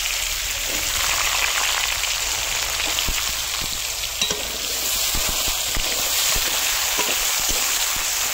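Carrots frying in hot cooking oil: a steady sizzle with scattered small pops and clicks.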